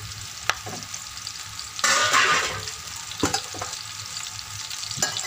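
Sliced button mushrooms frying in oil and ghee in a kadhai, stirred with a wooden spatula: a steady sizzle with a few sharp knocks of the spatula against the pan, and a louder stretch of sizzling and scraping about two seconds in.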